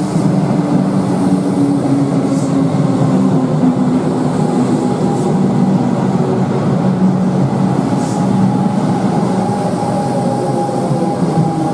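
Metro suburban electric train running past an underground station platform: a steady rumble with a continuous hum, and three short high-pitched hisses about 2.5, 5 and 8 seconds in.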